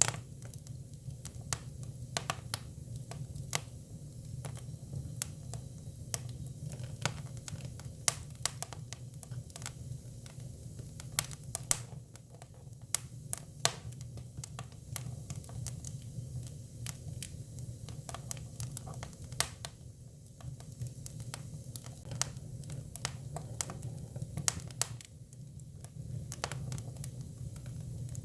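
Hinoki cypress firewood burning, with irregular sharp crackles and pops over a steady low rumble.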